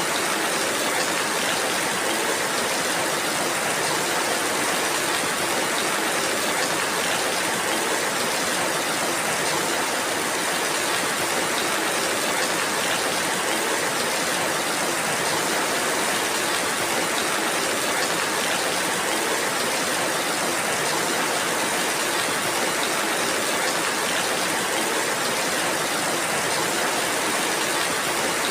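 Steady rainfall, an even hiss that keeps the same level throughout.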